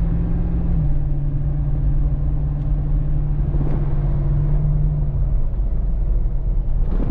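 Lexus GX460's 4.6-litre V8 with a Magnaflow exhaust, heard from inside the cabin while driving: a steady low drone over road rumble. Its pitch dips slightly about a second in, and the clear tone fades after about five seconds.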